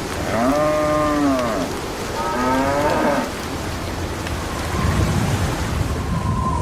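A cow mooing twice, the first call arching up and down in pitch and the second, shorter one rising, over a steady background hiss.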